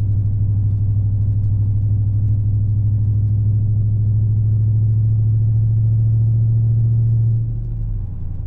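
Dodge Charger Scat Pack's 392 Hemi V8 running steadily under way, heard from inside the car as a low drone. About seven seconds in the note quietens and drops lower as the throttle eases.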